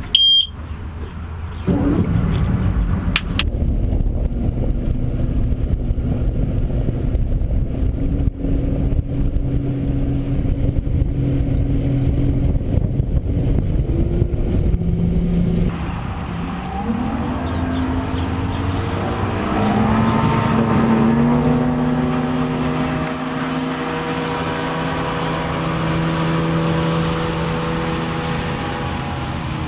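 A short beep, then an Evinrude E-TEC 225 HP outboard motor starts and runs. Later its pitch climbs steadily as it accelerates, and it settles into a steady, higher-pitched run.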